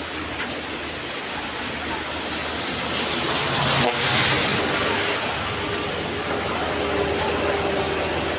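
Hino truck's diesel engine running under load with heavy road noise, growing louder about three seconds in, with a thin high whistle joining about five seconds in.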